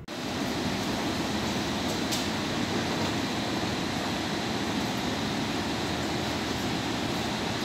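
Steady hum and hiss of a train standing at the platform with its ventilation and auxiliary equipment running, with one faint click about two seconds in.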